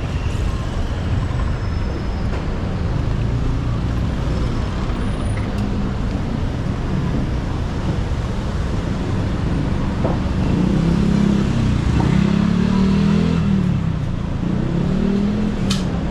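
Street traffic: a steady low rumble of road vehicles, with a low engine-like hum rising and falling in pitch through the second half.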